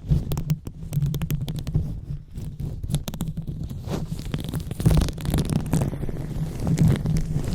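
Close-miked rubbing and scratching on a microphone for an ASMR brain-massage trigger: a muffled low rumble from the handling, crossed by many small crackles and clicks, with louder swells about four and five seconds in.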